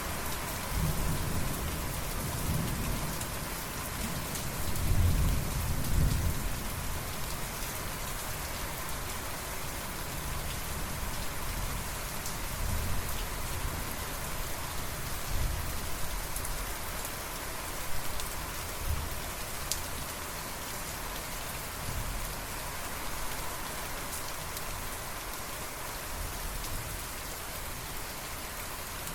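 Steady rain falling with a low rumble of distant thunder that builds about a second in, is loudest around five to six seconds, and dies away, followed by a few fainter rumbles.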